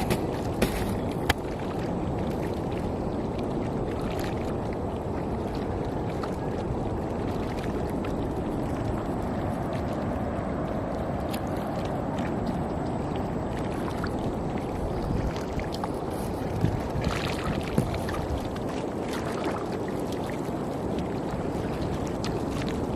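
Steady sloshing and splashing of water as a shore seine net is hauled through shallow estuary water, with a few short knocks about a second in and again around two-thirds of the way through.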